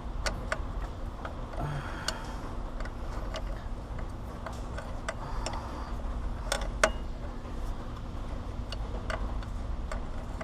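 Irregular light metallic clicks and taps of a wrench and fitting as a power steering pressure line nut is worked into place, over a low steady background hum.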